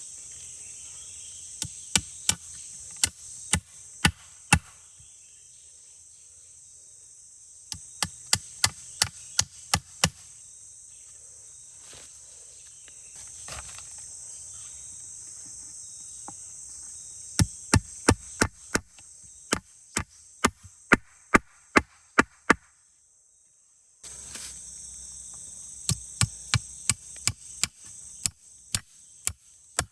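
Wood being chopped with a blade: bursts of sharp, quick strokes, a few to a dozen or more in a row, with pauses between the bursts.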